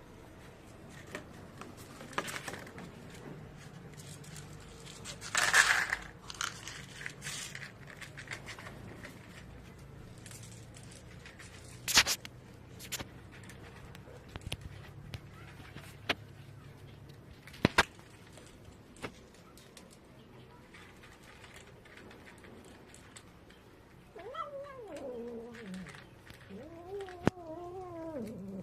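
A cat meowing several times near the end, each call bending and falling in pitch. Before that, scattered sharp clicks and knocks and a short rustling burst about five seconds in.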